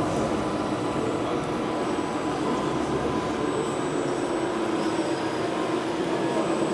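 Steady ambient noise of a busy exhibition hall, with a few faint constant hums running through it.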